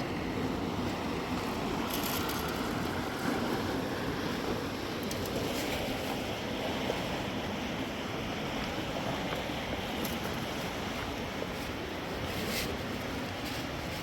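Steady rushing of a flowing river, with a few faint clicks over it.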